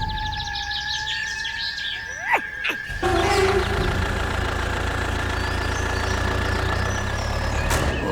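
A steady low engine hum starts suddenly about three seconds in and runs on evenly, under a constant thin high tone; faint bird chirps are heard before the hum starts.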